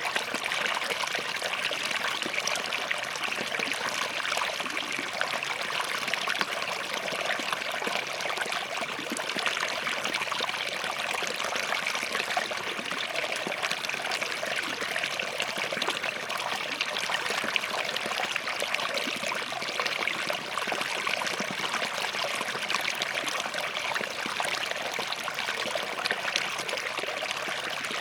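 Small forest stream running over and between rocks: a steady babbling and trickling of water.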